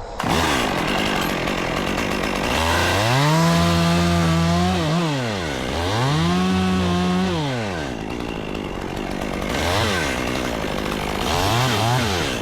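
Chainsaw cutting a tree limb: the engine revs up to full throttle and drops back toward idle, with two long pulls of about two seconds each, then shorter blips of throttle near the end.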